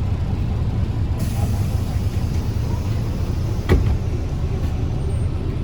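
Mercedes-Benz O307 bus running, a steady low rumble of engine and road noise. A hiss sets in about a second in and lasts most of the way, and a single sharp knock comes just past halfway.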